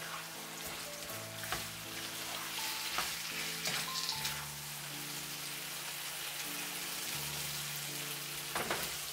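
Chicken, peanuts and spring onion sizzling steadily in hot oil in a pan as they are stir-fried with a spatula, with a few brief scrapes of the spatula.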